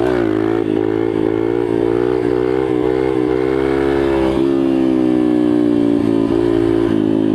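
Yamaha TT-R125's single-cylinder four-stroke engine under way on a ride, revving up at the start and then holding a fairly steady pitch with small rises and dips.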